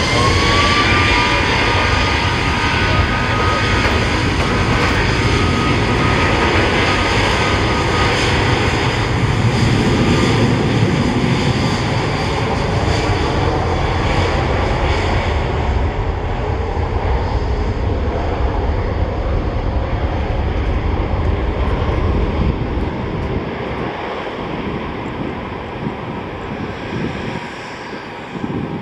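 Jet airliner's engines close by: a loud rush with a high whine that dips slightly in pitch in the first couple of seconds, then fading away over the second half.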